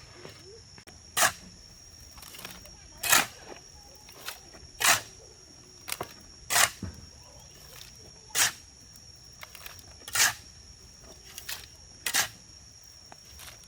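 A hand tool scraping through wet concrete in regular strokes, one roughly every two seconds, over a steady high-pitched whine.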